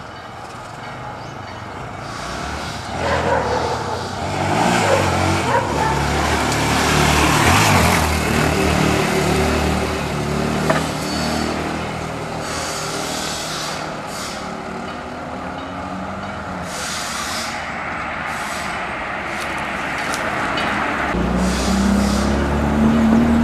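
Single-cylinder trail motorcycle engine revving up and easing off repeatedly as it is ridden for wheelies. The revs are highest a few seconds in, and climb again near the end.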